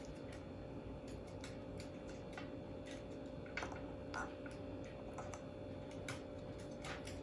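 Faint, irregular light clicks and taps from an African grey parrot moving about and handling a ball as it fetches, a couple slightly louder in the middle, over a steady faint hum.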